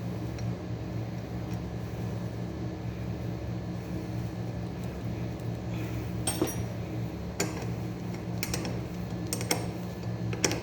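A steady low mechanical hum runs throughout. From about six seconds in, five or six sharp metallic clinks of hand tools, such as a socket wrench on starter-motor nuts, sound about a second apart.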